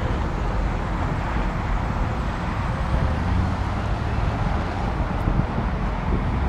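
Car engines and exhausts running in a steady low rumble as cars roll slowly past, with no sharp revs.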